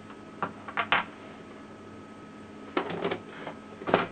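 Sharp plastic clicks and knocks from inkjet printer parts and ink-supply tubing being handled: a couple about a second in, a short clatter about three seconds in, and the loudest click near the end.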